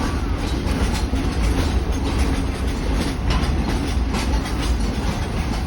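Chichibu Railway electric train running past, a steady heavy rumble with wheels clicking over the rail joints several times.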